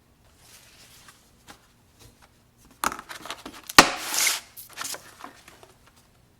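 Kitchen handling noises: rustling and clattering with a single sharp knock about four seconds in, as produce and containers are handled.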